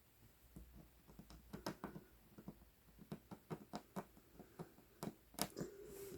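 Cross-stitch needle poking through 11-count Aida cloth and embroidery floss being drawn through it: soft, irregular clicks and light scratches, about two a second.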